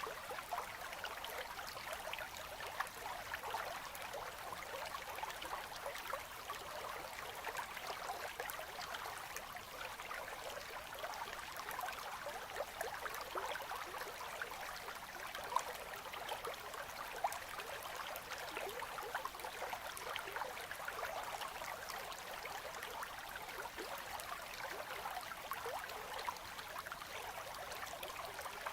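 River current flowing steadily between ice: the quiet burble and gurgle of running water, with small splashes now and then.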